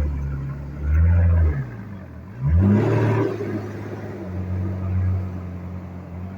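4WD engine revving in repeated surges while pulling a bogged vehicle back out of soft sand on a recovery strap. Two short bursts of revs, then a sharp climb about two and a half seconds in that is held for a couple of seconds before easing off.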